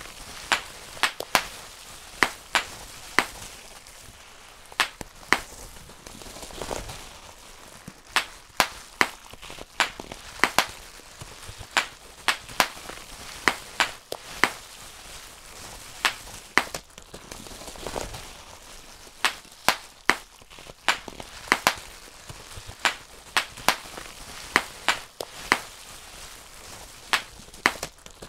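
Bubble wrap being popped by hand, one bubble at a time: sharp, irregular pops about one or two a second, with a softer rustle of the plastic sheet twice.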